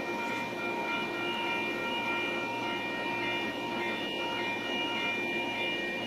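Metrolink commuter train pulling slowly out of the station with its cab car leading: a steady running drone with several thin, steady whining tones that come and go.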